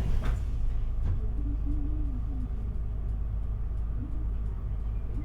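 Interior noise of an Isuzu Erga diesel city bus: a steady low engine and road rumble, with a few faint clicks and rattles from the cabin.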